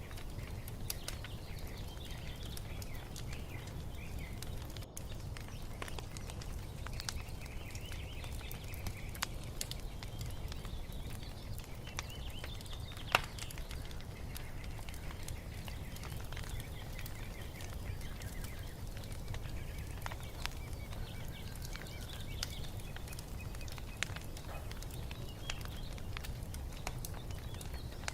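Fireplace fire crackling with scattered small pops and one sharp pop about halfway through, over a low steady rumble. Birds chirp faintly in the background.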